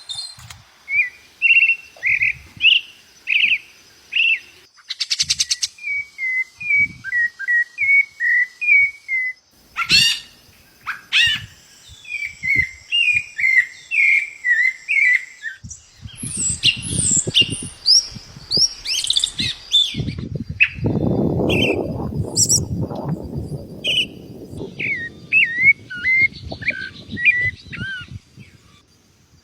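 Small birds singing and chirping in many short, quick notes and warbles, with a brief buzzy trill about five seconds in. From about halfway through, a low rushing noise runs underneath, loudest a few seconds later, then fades before the end.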